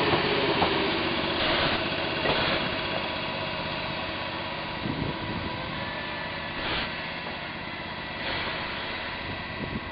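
115 series electric train standing at the platform after arriving, its onboard equipment humming steadily and slowly fading, with a few short hisses of air.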